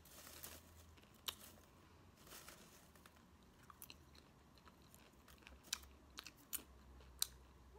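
Quiet chewing of popcorn, with faint sharp crunches and clicks coming every second or two.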